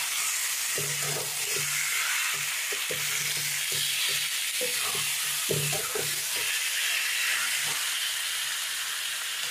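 Raw chicken pieces sizzling in hot oil in a kadai, with a steady frying hiss, as a metal spatula stirs and scrapes them through the onion and ginger-garlic masala in short repeated strokes. This is the first stir-fry (koshano) of the meat after it goes into the pan.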